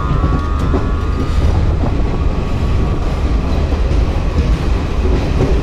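Garib Rath Express AC coach rolling out of the station: a steady rumble of wheels on the rails, heard from on board at the coach's side.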